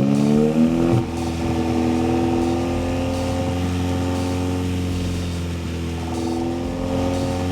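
VW MK7 GTI's turbocharged four-cylinder through an AWE Track Edition exhaust, revving up under acceleration until a gear change about a second in, then running at steady revs.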